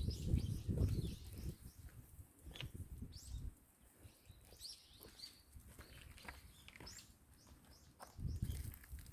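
Small birds chirping and tweeting in short, scattered calls, with gusts of wind rumbling on the microphone at the start and again near the end.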